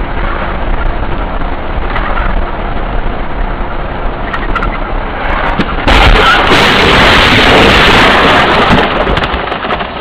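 Steady car driving noise from a dashcam. About six seconds in, a sudden loud, harsh noise takes over for about three seconds, with a few sharp clicks as it dies away.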